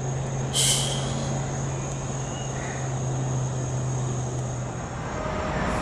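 CSX freight train rolling past with a steady low engine drone that fades out near the end. A brief sharp high hiss comes about half a second in.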